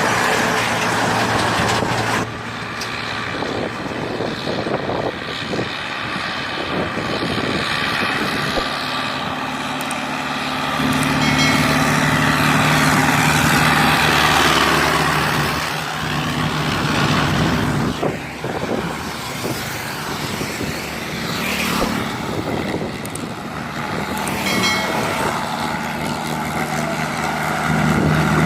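Diesel tractor engines running under load, hauling loaded sugarcane trolleys, with a steady low engine note that grows stronger about eleven seconds in.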